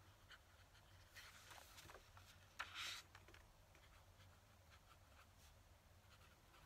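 Faint scratching of a fountain pen nib writing on paper in short strokes, with a brief louder rustle about two and a half seconds in.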